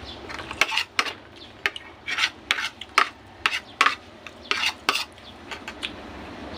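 Metal utensil clinking and scraping against a dish, in irregular sharp strokes, roughly two to three a second.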